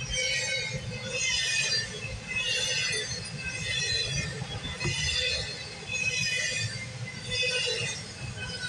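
Passing CSX double-stack intermodal freight train, heard from inside a car: a steady low rumble of the cars rolling by on the rails. Over it, a high ringing sound comes back about once a second.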